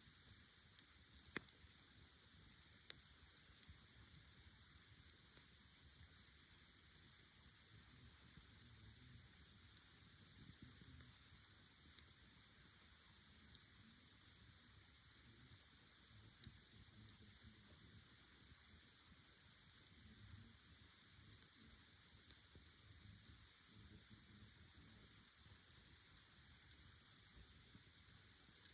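A dense, steady, high-pitched chorus of crickets chirping in the night, with a few faint crackles from a campfire.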